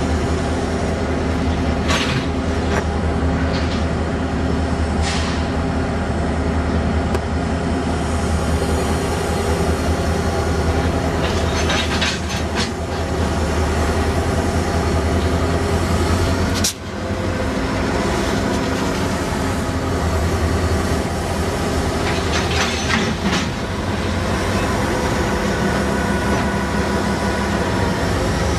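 Freight train with diesel locomotives running: a steady low engine drone throughout, broken by a few short metallic squeals and clanks from the wheels and cars.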